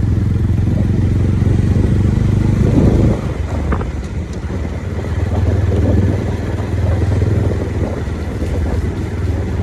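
Motorcycle engine running steadily while riding, with wind noise on the microphone; it builds for about three seconds, then drops suddenly as the throttle eases off.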